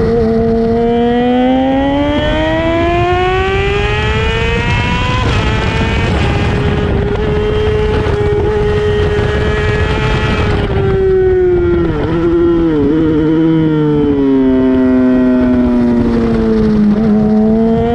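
Honda CBR600RR (PC40, 2008) inline-four engine under hard riding: revs climb for several seconds, hold high through the middle, then fall with a couple of short wavers about twelve seconds in, before climbing again near the end.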